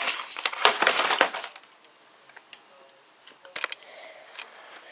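Handling noise from a model locomotive's plastic packaging: about a second and a half of rapid clicking and crinkling as the model is lifted out, then a few light clicks, with a sharp double click about three and a half seconds in.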